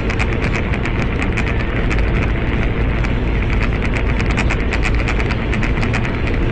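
Car driving along, heard from a dashcam inside it: steady engine and road rumble with a rapid, irregular ticking rattle over it.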